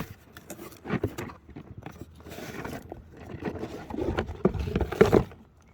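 Rustling, scraping and clicking of a package being handled as knee pads are pulled out of their box and wrapping, louder about four to five seconds in.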